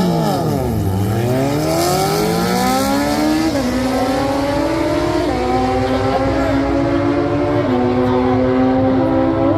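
A race car's engine launching and pulling hard down the track. The pitch dips right at the start, then climbs steadily, dropping back at each of three upshifts.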